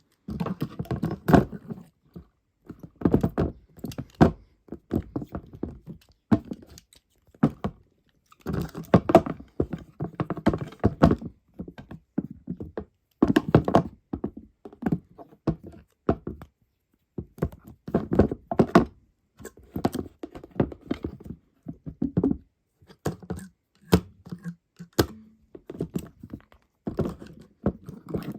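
Repeated bursts of rapid tapping and knocking, each a second or two long, with short silent gaps between them.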